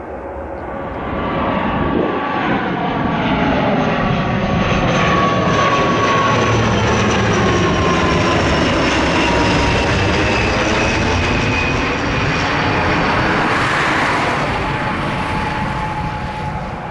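Turboprop airliner's engines and propellers passing by, a loud steady drone with several whining tones that slide slowly down in pitch as it goes past.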